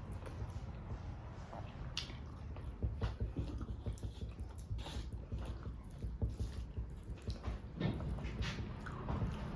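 Close-miked chewing and wet mouth smacks of a person eating fish curry, with irregular sharp clicks.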